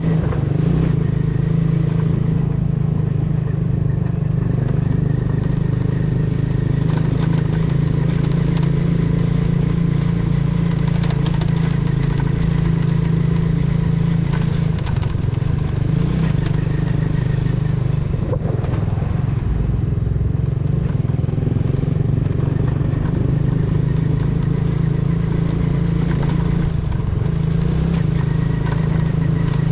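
A customised 125cc motorcycle's engine and exhaust running while riding, a steady engine note that changes pitch briefly about halfway through and again near the end.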